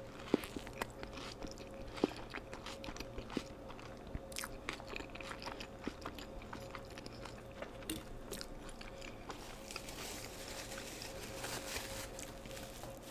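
Close-miked eating of McDonald's fast food: crunchy bites and chewing, with many sharp crackles and a denser stretch of crackling near the end. A faint steady hum runs underneath.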